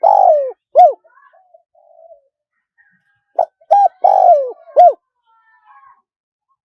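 Spotted dove cooing in its wild-style song, the call played to draw wild doves to a decoy. A phrase ends about a second in, then a full phrase of four hooting notes follows about three and a half seconds in, with a longer falling note in the middle.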